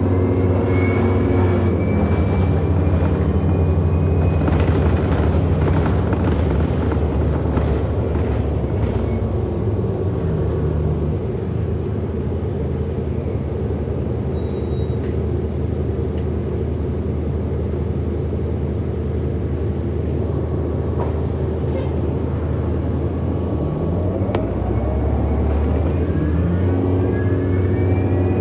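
Orion NG hybrid-electric city bus running: its motor whine and drivetrain tones wind down as it slows, it runs steadily for a stretch, then the whine climbs again as it pulls away. Its motor sound is called weird.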